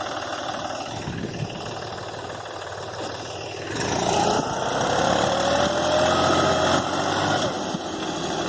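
Mahindra tractor's diesel engine running, then revved up about four seconds in, its pitch rising steadily for a few seconds before holding.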